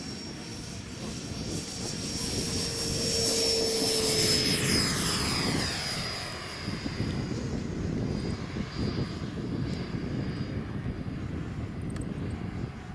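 A radio-controlled F-104 Starfighter model jet flies past with a high, steady whine. It grows louder to a peak about four seconds in, with a slight drop in pitch as it passes, then goes on more quietly at a distance.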